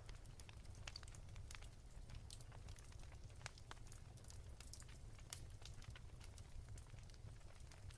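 Soft crackling of a wood fire: irregular small pops and snaps at no steady rhythm, over a faint low rumble.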